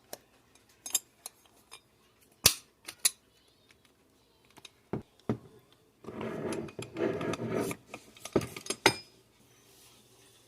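Hand tools and small metal parts clicking and clinking in bench work on a small 12-volt water pump, with a couple of seconds of scraping about six seconds in.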